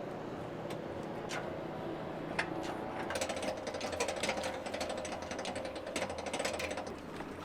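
Rapid mechanical clicking over a steady hum, like a small machine or ratchet working, starting about three seconds in after a few separate clicks.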